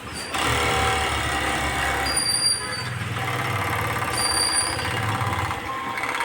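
Jack E3 overlock (serger) sewing machine running at speed, a steady mechanical hum with a faint high whine, starting just after the beginning and cutting off sharply near the end.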